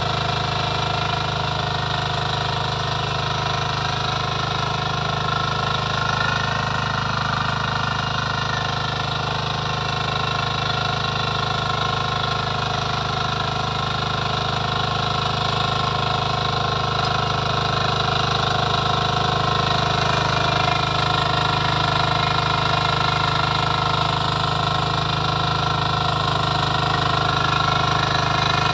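Power weeder's small engine running steadily at a constant speed.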